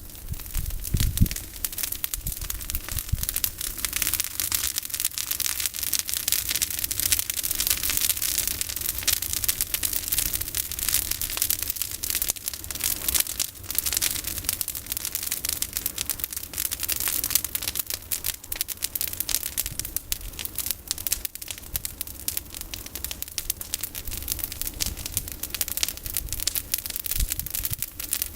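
Campfire of pruned olive branches crackling and popping, a dense, continuous run of sharp snaps. A low thud comes about a second in.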